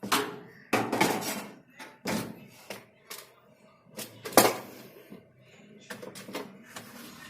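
Irregular metallic clanks and knocks, about seven sharp hits, the loudest about four seconds in, from tools and parts being handled while the suspension rods of an LG washing machine are being swapped.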